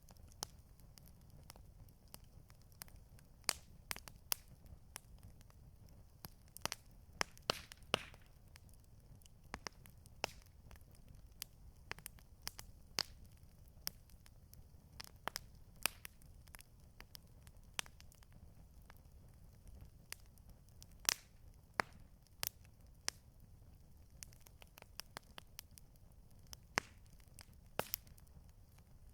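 Campfire crackling: burning wood giving irregular sharp pops and snaps, a few every second, over a low steady rumble.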